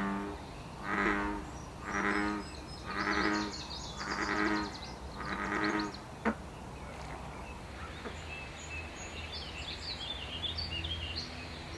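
American bullfrog calling: a run of six deep, droning calls about a second apart, then falling silent. Birds chirp faintly in the background near the end.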